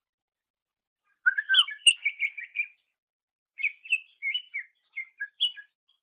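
Cucak ijo (greater green leafbird) singing in two short bursts of quick, varied chirps and whistled notes. The first starts about a second in and the second comes a second later.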